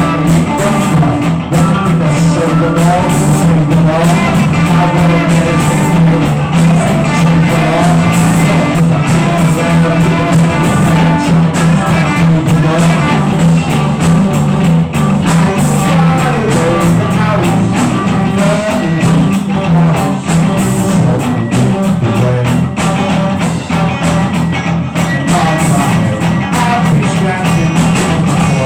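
Rock band playing a loud, continuous improvised jam, with a voice singing over it.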